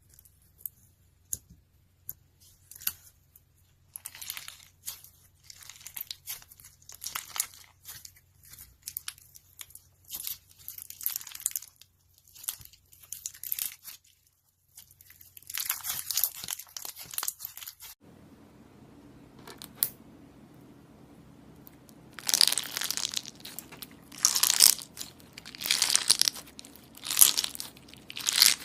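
Slime being squished and stretched by hand, giving irregular bursts of crackling and crinkling. The crackling becomes louder and denser about two-thirds of the way through.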